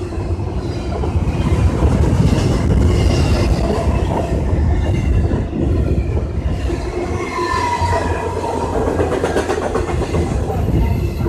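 Intermodal freight train's container cars rolling past close by, with a steady heavy rumble and clatter of wheels on the rails. Thin high wheel squeals come and go over it, the clearest about two-thirds of the way through.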